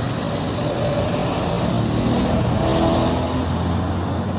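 A motor vehicle's engine running with road noise, a low rumble that swells to a peak about three seconds in, then eases off.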